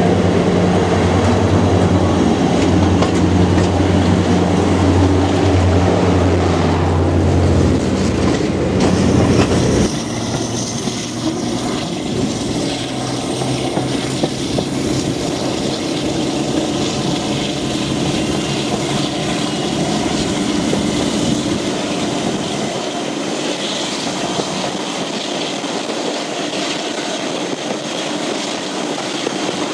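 Diesel locomotive engine running with a deep, steady drone, its pitch stepping down near the end of this part. About a third of the way in the sound changes abruptly to a moving train heard from an open carriage window: a steady rumble of wheels on rail with some clickety-clack.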